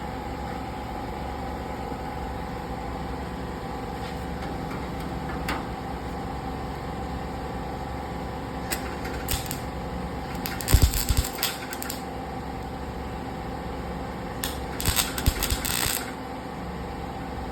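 110-volt wire-feed (MIG) welder laying short crackling bursts of weld to fill holes in a car's steel quarter panel, the loudest bursts about halfway through and again near the end. A steady hum runs underneath.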